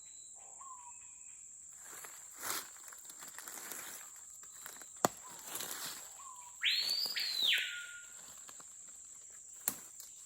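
Rainforest ambience: a steady high-pitched insect drone with a few short bird whistles. Two sharp clicks, around five seconds in and near the end, and a louder call lasting about a second, beginning about two-thirds of the way in and ending on a falling note.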